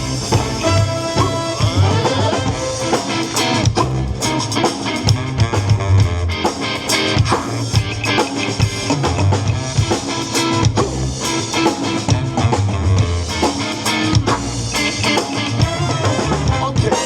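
Live swing band playing an instrumental passage, with drum kit and guitar to the fore and a steady beat.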